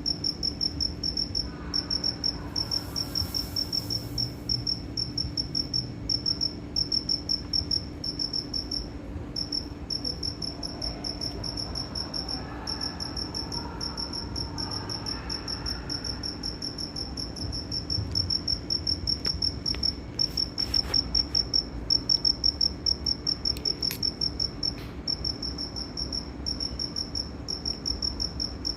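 A cricket chirping in a steady run of short, high, evenly repeated chirps, over a faint steady low hum.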